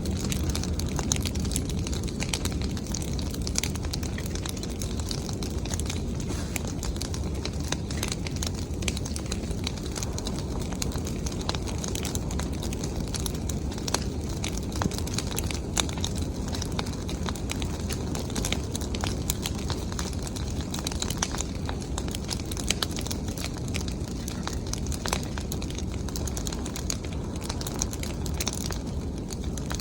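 Bonfire of branches and leaves crackling, with many irregular sharp pops over a steady low rumble.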